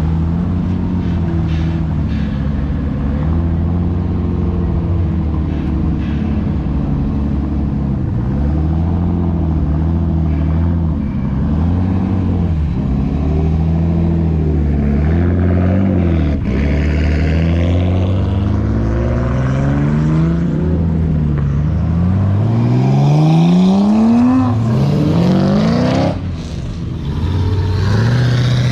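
A car engine running at a low, steady pitch, then revved up and down again and again. In the last several seconds it accelerates hard, its pitch climbing steeply, dropping back and climbing again.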